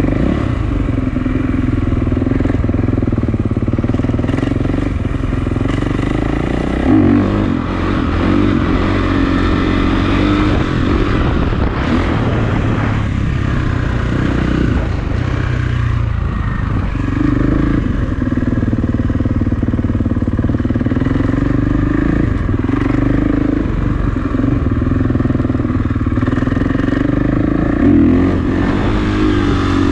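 Kawasaki KX450 dirt bike's four-stroke single-cylinder engine running while ridden, its revs rising and falling, with sharper rev changes about seven seconds in and again near the end.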